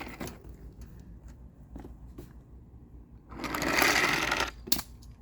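Small battery-powered toy train motor whirring as the engine runs along the track, with light clicks from the wheels over the track joints; it gets louder for about a second a little past the middle.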